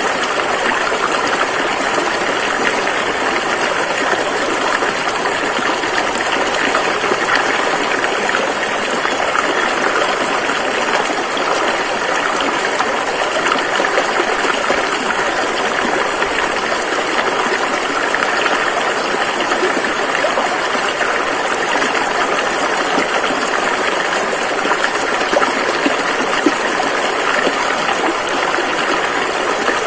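River water rushing and gushing over rocks in a steady, unbroken wash.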